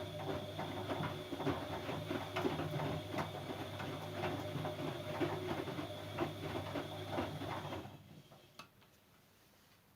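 Siemens Siwamat C10 washing machine running, a steady motor hum with irregular clicks and knocks as the drum turns. The running stops about eight seconds in and dies away.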